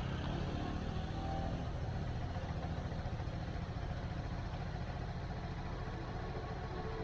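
Motorcycle engine running steadily at low revs, with a fast, even pulsing at the bottom of the sound.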